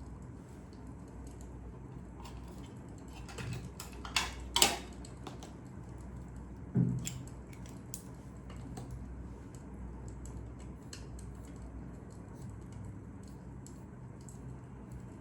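Wood fire crackling: scattered irregular snaps and pops over a steady low rumble, with a few louder pops about four to five seconds in and a duller thump near seven seconds.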